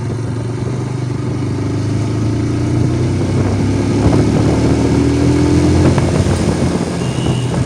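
Motorcycle engine running at road speed, heard from the bike, with a note that rises slowly in pitch from about two seconds in until about six seconds in as the sound grows louder.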